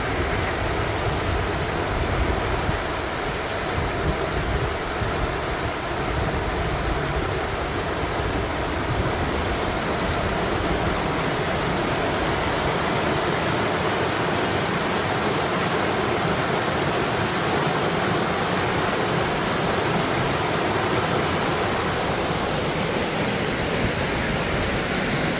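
Small river waterfall: water running over rocks in a steady, even rush.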